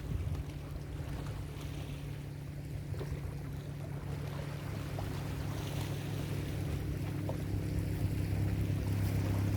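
Ocean waves washing on the shore, with a steady low hum underneath that grows gradually louder.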